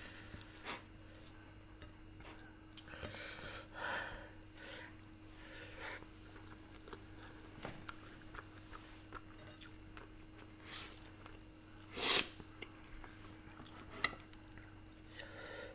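A person eating close to the microphone: soft chewing and wet mouth sounds of rice and smoked pork eaten by hand, with scattered small clicks and one louder sharp noise about twelve seconds in.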